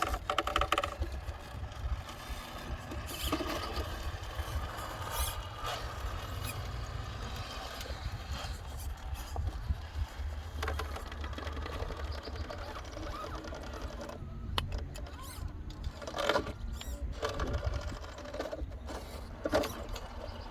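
Radio-controlled truck's electric motor and geared drivetrain whining as it drives, in uneven short runs, with a constant low rumble underneath.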